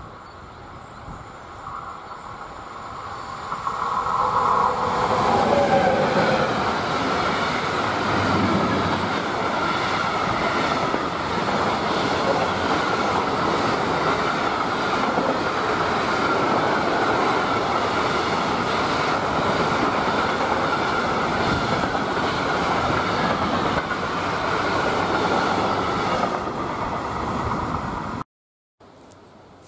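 DB Cargo Class 185 TRAXX electric locomotive passing close by with a whine that falls in pitch as it goes past. A long train of hopper wagons follows, with a steady rolling noise of steel wheels on rails. The sound cuts off suddenly near the end.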